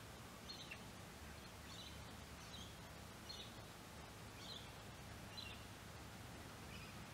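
A small bird chirping: about seven short, high chirps, roughly one a second, over a faint steady low rumble.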